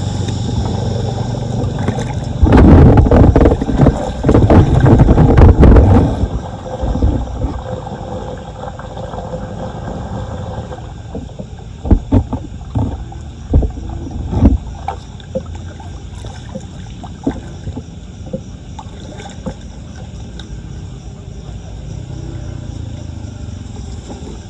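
Floodwater splashing and sloshing in loud rough bursts over a steady low drone, followed by several sharp knocks, typical of clearing debris from a clogged street drain.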